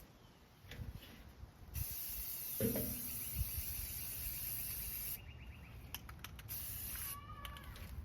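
Aerosol can of anti-rust spray paint hissing in bursts onto metal: one long spray of about three and a half seconds, then a short one.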